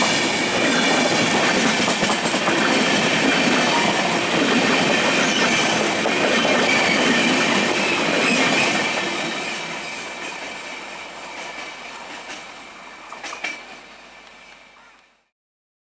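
Passenger train running past at speed: a steady rumble and rattle of wheels on the rails with a thin high squeal over it, fading away from about nine seconds in. A short sharp click comes near the end, just before the sound cuts off.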